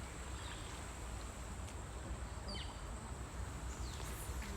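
Outdoor ambience: a steady high-pitched insect drone over a low rumble, with a few short, falling bird chirps.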